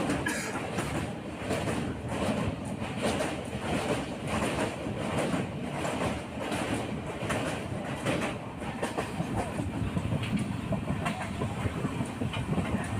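Train running along the track: a steady rumble with the wheels clacking over the rail joints in a regular rhythm.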